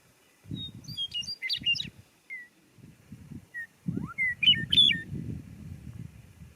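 A songbird singing two quick, jumbled phrases of high warbled notes, with single whistled notes between them, over low irregular rumbling.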